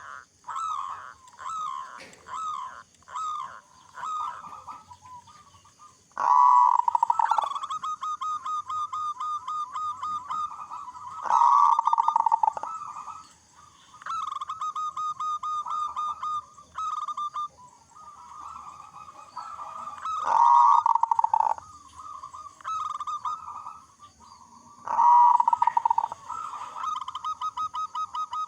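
Zebra dove (local perkutut) singing in its full cooing song: a few separate falling coos at first, then four loud bouts about 5 s apart, each opening with a strong coo and running into a quick rolling string of short staccato coos.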